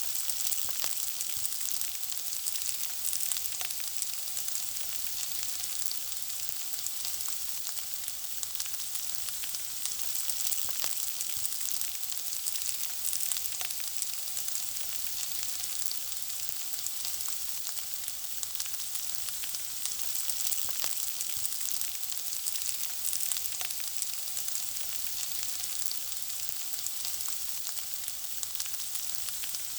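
Food frying: a steady high sizzle with many small crackles and pops scattered through it.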